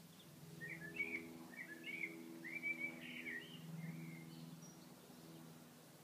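A songbird singing one phrase of quick, warbled chirps, starting about half a second in and ending around four seconds in, over a faint steady low hum.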